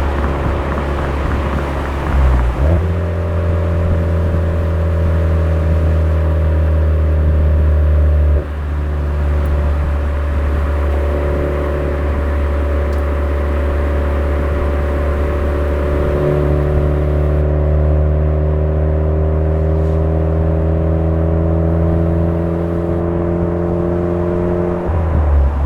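Suzuki Swift Sport ZC33S's 1.4-litre turbocharged four-cylinder running through a Fujitsubo aftermarket exhaust while driving. The engine note changes suddenly about two seconds in, drops sharply about eight seconds in and again near the end, and the revs build slowly in between.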